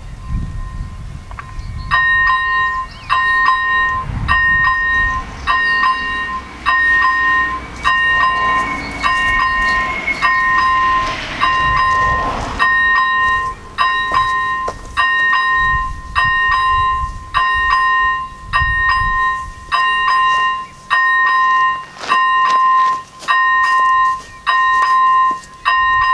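ZV-01 electronic warning bell of an AŽD 97 level-crossing signal ringing: a steady, evenly repeated pitched ding a little more than once a second, starting about two seconds in. It means the crossing has been activated for an approaching train. Low rumble and wind on the microphone sit under it, heaviest in the first half.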